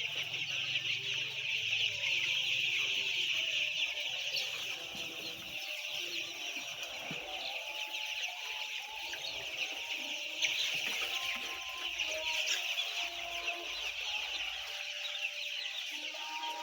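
A huge flock of chicks peeping all at once: a dense, unbroken wash of overlapping high chirps. A faint low hum runs under it for the first few seconds.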